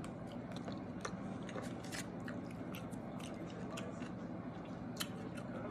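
Close-miked chewing of a mouthful of sautéed vegetables: soft, irregular wet mouth clicks over a low steady hum.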